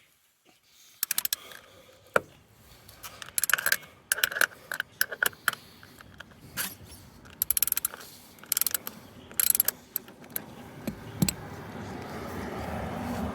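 Metal hand tools clicking and rattling in short bursts of rapid clicks, like a socket ratchet being worked, during oil-change work on a compact tractor. Near the end a steady rushing noise builds up.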